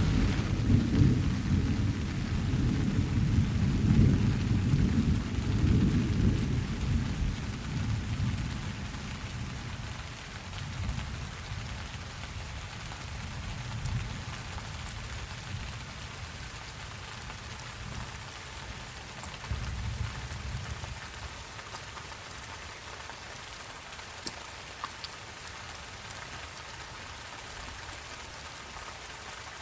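Steady rain falling, with a long roll of thunder at the start that fades away over about ten seconds, and a fainter rumble of thunder around twenty seconds in.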